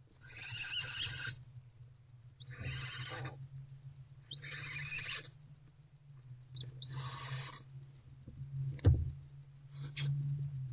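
Barn owlets in the nest box giving four harsh, hissing begging screeches, each a little over a second long and about two seconds apart. A single knock comes near the end, over a steady low hum.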